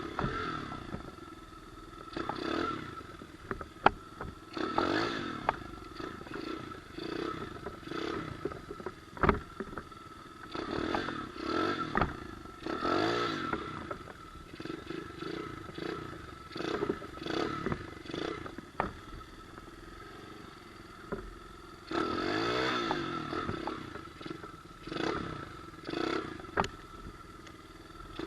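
Pit bike engine revving up and dropping back in repeated bursts, with rattling and a few sharp knocks, the loudest about 4 and 9 seconds in.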